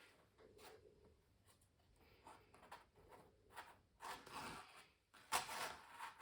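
Faint scratchy strokes of a tool across canvas, several separate strokes, with the loudest about five seconds in.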